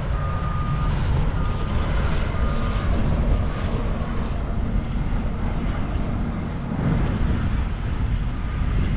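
Steady low rumble of engines and traffic around a truck stop lot. A short high beep repeats about once a second over the first few seconds, then fades.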